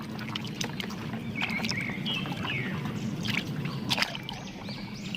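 Water sloshing and trickling as a muddy plastic toy vehicle is washed by hand in a tub of water, with a few sharp knocks.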